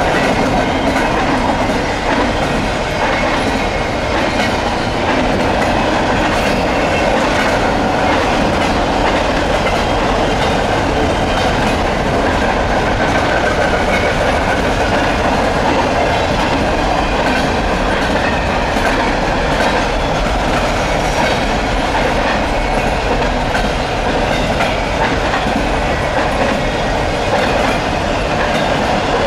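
Double-stack intermodal well cars rolling past on a low bridge, a steady, unbroken noise of steel wheels on rail.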